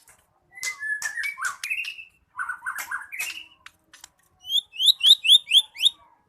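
White-rumped shama (murai batu) singing: varied warbled phrases with short pauses, then about a second and a half of six loud, quickly repeated rising notes near the end.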